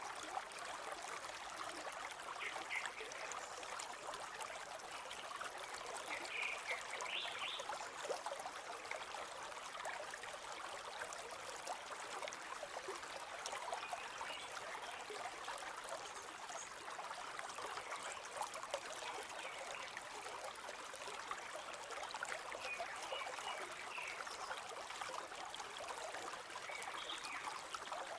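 River water flowing steadily, a constant rush. A few faint, short, high bird chirps sound over it, briefly, several times.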